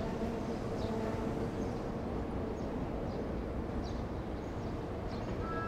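A distant train crossing a railway bridge, heard as a steady low rumble with a faint steady hum. Short high bird chirps come about once a second.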